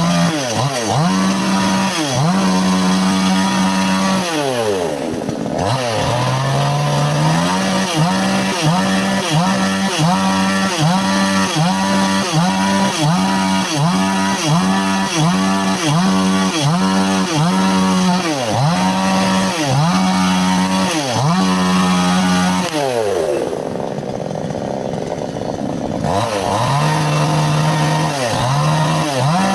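Two-stroke chainsaw cutting wood at high revs, its engine note sagging and recovering about once or twice a second under load. It drops back to idle twice, about four seconds in and again near the end, then revs up again.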